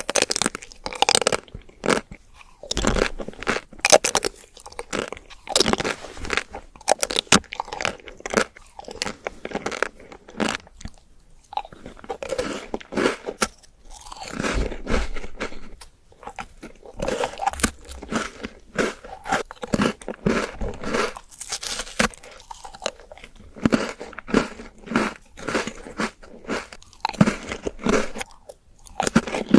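Close-miked eating of sweet desserts: repeated crunchy bites and wet chewing, in an irregular stream of crackles and mouth sounds.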